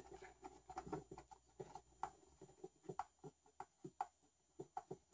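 Faint, irregular small clicks and ticks, a few a second, as a screwdriver turns and unthreads a threaded-in screw from a power tool's housing.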